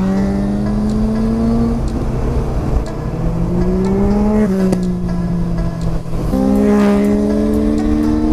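Motorcycle engine under way. Its note climbs steadily under acceleration and breaks at gear changes about 2, 4.5 and 6 seconds in, over a steady rush of wind.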